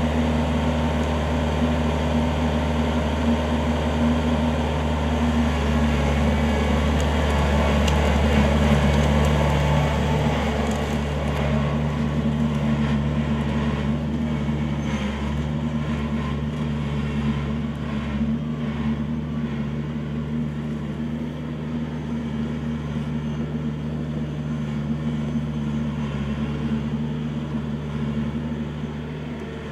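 Kubota L4400 tractor's four-cylinder diesel engine running steadily under work, a little louder about a third of the way in and easing off toward the end, with a few faint knocks in the middle.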